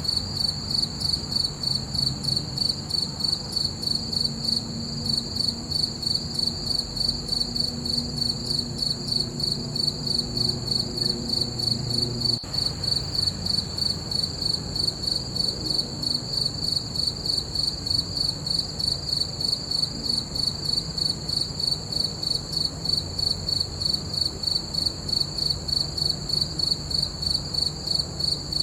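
Crickets chirping in a steady, even rhythm of high-pitched pulses, over a faint low rumble.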